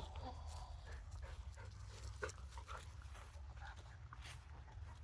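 A dog panting and giving a few short whimpers, with the cluster of sounds about two seconds in.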